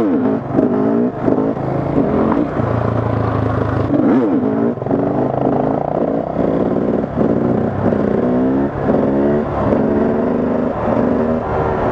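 Husqvarna 300 TE two-stroke engine revving up and down in quick, repeated throttle bursts, about two a second, as the rider works the throttle to hold a wheelie.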